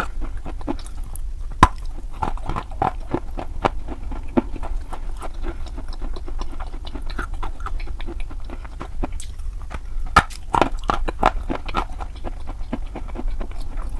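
Chalk being bitten and chewed: irregular sharp crunches, with a quick run of louder crunches near the end, over a steady low hum.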